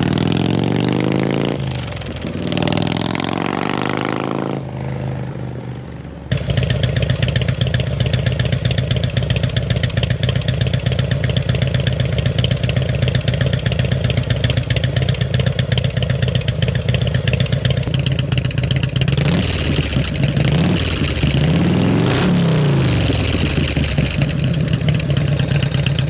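88-cubic-inch Harley-Davidson Road King V-twin running through its aftermarket mufflers, revved with pitch rising and falling. About six seconds in the sound changes abruptly to a steady, loping idle, and near the end it is revved up and down again.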